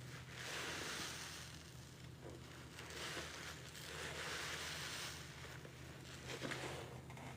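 Sponge loaded with pine-scented cleaning paste being squeezed and rinsed in water: several swells of squishing and running water, over a low steady hum.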